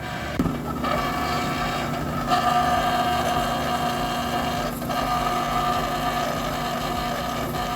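Dexter commercial dryer's drive motor starting with a click about half a second in, then running with a steady whine that gets louder about two seconds in: worn motor bearings rubbing metal on metal, a motor going bad.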